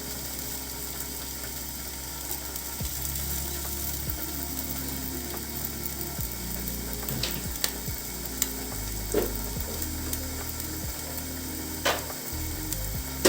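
Food sizzling in a frying pan, with a few sharp clicks and scrapes from a utensil against the pan.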